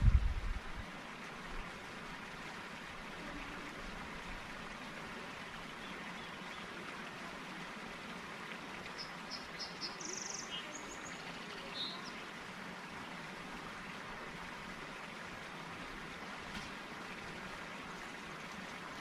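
Steady outdoor background rushing, like flowing water. About halfway through come a few short, high bird chirps, and there is a low bump at the very start.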